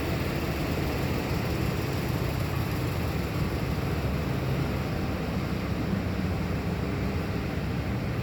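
2004 Ford F-150's 4.6-litre V8 engine running steadily.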